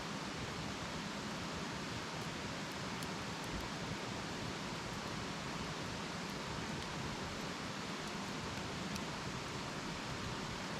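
Campfire burning: a steady hiss with a few faint crackles.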